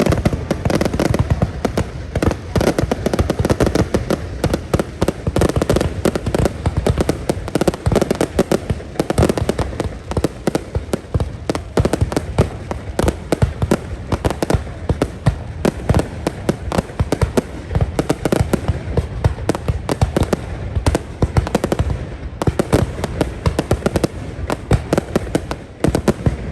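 Fireworks display: a dense, continuous rattle of aerial shell bursts and crackling, many bangs a second without pause.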